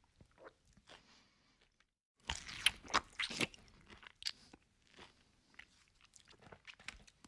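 A person chewing a mouthful of food close to the microphone. A loud burst of crunching starts a little over two seconds in and lasts about a second and a half, with softer chewing clicks before and after.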